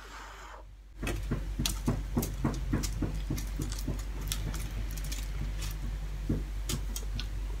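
Close-miked chewing of a mouthful of food: small wet mouth clicks and smacks, several a second, starting about a second in, over a steady low electrical hum.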